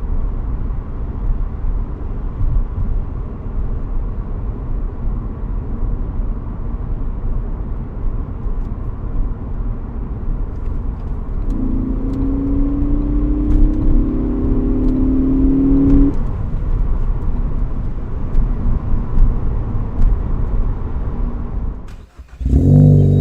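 Ford Focus ST's turbocharged 2.0-litre four-cylinder while driving: a steady low drone with road noise, then about halfway through the engine note climbs in pitch for some four seconds under acceleration before falling back. Near the end the sound cuts out for a moment and a steadier engine note starts.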